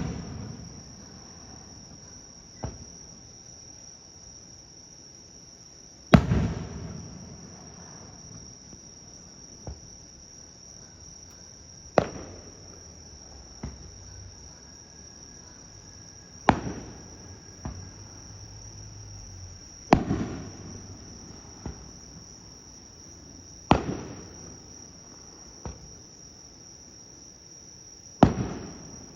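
Aerial firework shells bursting: six loud booms a few seconds apart, each with a rolling echo that fades over about a second, with fainter cracks between them. A steady high chirring of crickets continues underneath.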